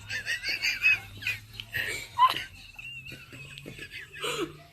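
A person laughing in several short, high-pitched giggles.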